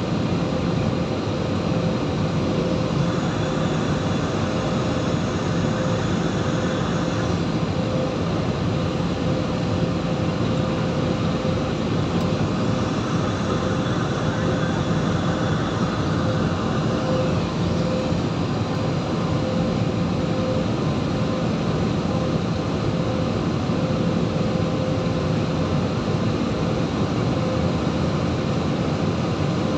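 Steady jet airliner cabin noise, the engines and rushing air heard from inside the passenger cabin, with a constant low hum and a faint held tone.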